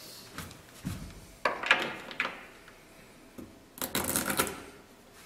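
Toilet closet bolts and their plastic retainer sleeves being handled and fitted into the floor flange. Scattered clicks and light knocks, with a quick run of rattling clicks about four seconds in.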